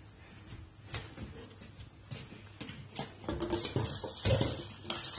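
Shiba Inu moving about on the floor: light pattering and scattered clicks, louder and rustling from about three seconds in.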